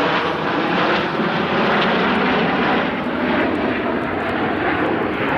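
Jet aircraft engine noise, a loud steady rush, from the Snowbirds' CT-114 Tutor jets in flight.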